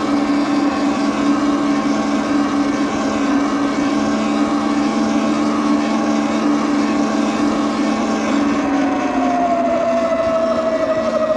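Steady motor drone over wind rush. A higher tone slides down in pitch near the end while the low hum carries on.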